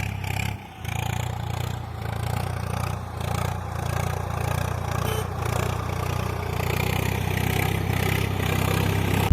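A small motor in a homemade mini model running steadily, a continuous low hum with a rattly, scraping haze over it.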